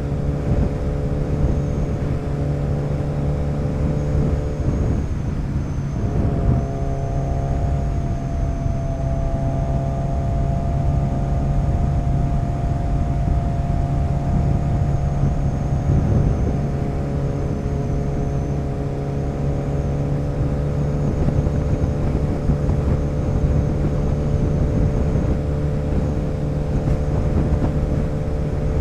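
Motorcycle engine running steadily while riding at cruising speed, its pitch shifting a little about six seconds in and again around sixteen seconds.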